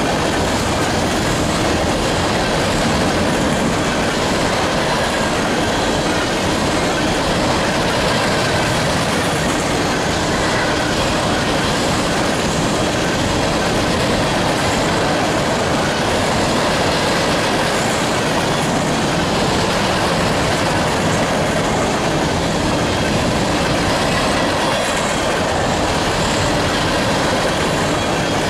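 Covered hopper cars of a freight train rolling past close by: the steady rumble and clatter of steel wheels on the rails.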